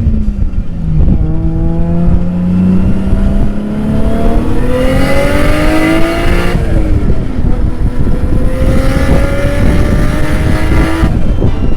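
Car engine held at high revs while drifting, its pitch climbing slowly, falling away about six and a half seconds in, then climbing again. A rushing hiss comes in over the engine during both high-rev stretches.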